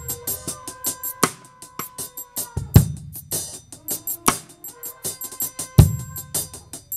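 Gospel worship music with a drum kit playing busy hits and cymbals, and heavy low drum strikes about every three seconds, over a held instrument note that fades out about halfway through.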